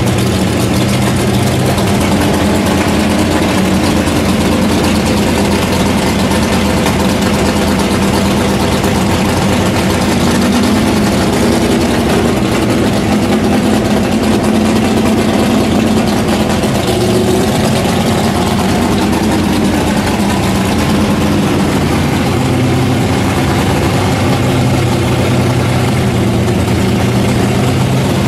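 426 cubic inch Hemi V8 of a 1965 Plymouth A990 drag car running loud and steady at a crawl, its note shifting a little in pitch as the car rolls along.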